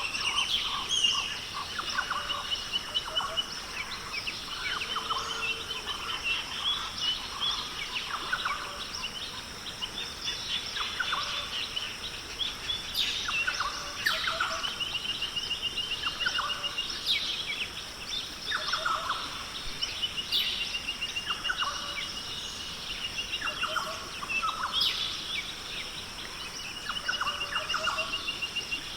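Rainforest birds calling over a steady high-pitched hiss: short rapid trills recur every few seconds among many sharp chirps and whistled notes.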